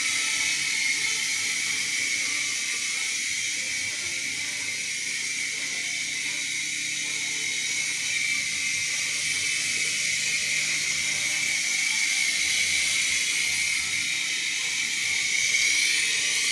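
X/B Blaze Elite toy indoor RC helicopter in flight, its small electric motors and rotors making a steady high whir with a hiss, growing a little louder near the end.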